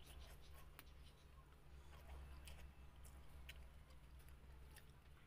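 Faint mouth sounds of someone eating by hand: soft chewing with scattered small clicks, over a low steady hum.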